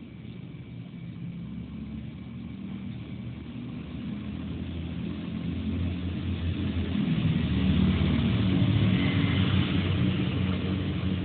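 A motor vehicle going by: a low engine hum that grows louder to a peak about eight seconds in, then starts to fade.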